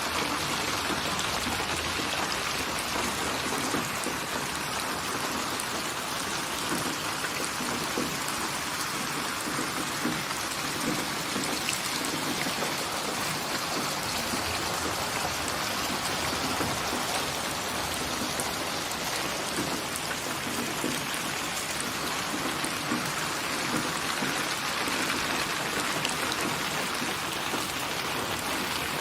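Steady rain falling on a surface: an even, dense hiss of raindrops.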